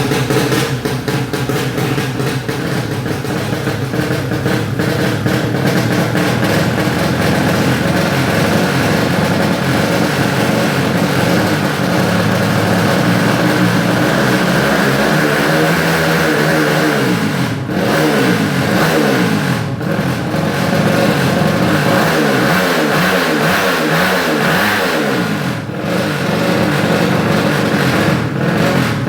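Motorcycle engine with a racing exhaust running steadily, then revved up and down over and over from about halfway in.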